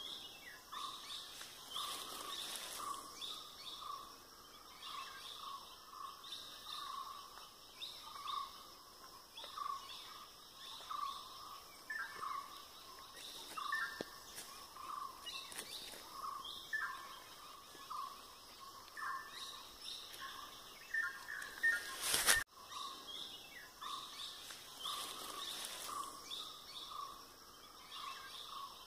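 Several birds calling. One bird repeats a short, fairly low note about twice a second almost throughout, while others add higher falling calls. About 22 seconds in there is one sharp, loud click and a brief drop in sound.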